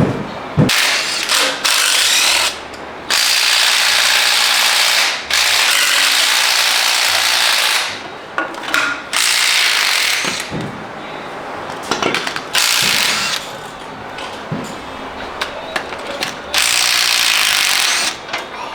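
Power ratchet wrench running in repeated bursts of one to three seconds, spinning bolts loose while the cylinder heads and intake come off an engine during teardown.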